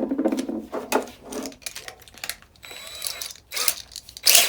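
Irregular clicks, clinks and knocks of hard parts and tools being handled on a workbench, with a louder knock about four seconds in.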